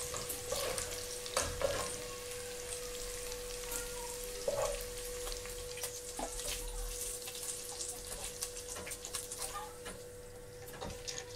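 Beef slices frying in hot oil in a pan, a steady sizzle with scattered crackles and pops, and a spatula knocking against the pan a few times in the first two seconds. A faint steady hum runs underneath.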